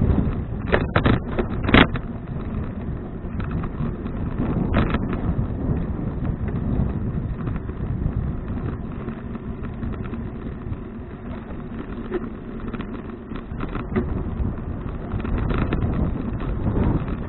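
Wind rushing over an action camera's microphone during a bicycle ride, a steady low rumble, with a few sharp knocks about a second in and once near five seconds.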